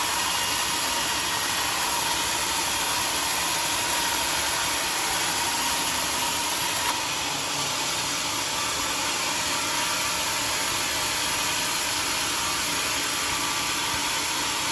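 Steady mechanical running noise from a motor-driven machine, even and unbroken, with a faint steady whine.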